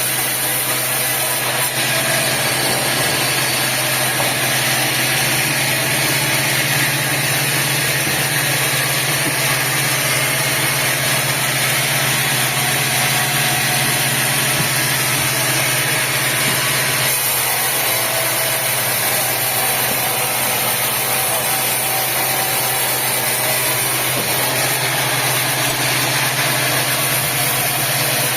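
Sawmill machinery running steadily: a loud, continuous engine drone with a strong low hum and a high hiss, shifting slightly about 17 seconds in.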